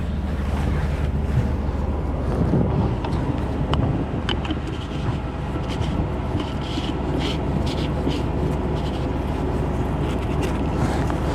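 A running engine's steady low rumble, with wind buffeting the microphone and scattered small clicks and rattles over it.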